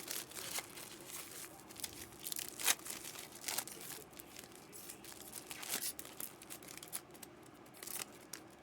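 Trading-card pack wrappers crinkling and tearing, with cards rustling and clicking as they are handled, in irregular short bursts.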